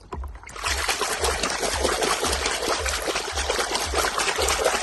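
Water running in a steady, hissing stream, starting about half a second in.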